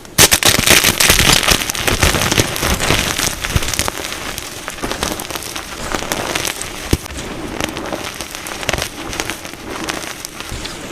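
Plain gym chalk crunching and crumbling under pressure: dense crackling of many small snaps. It starts suddenly about a quarter second in, is loudest over the first two seconds, then goes on more evenly.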